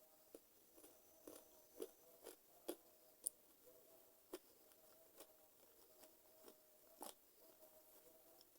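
Close-up chewing and biting of cooked chicken feet: a scattering of small crunches and wet clicks, about ten in all, the sharpest a little past three seconds in and another near seven seconds.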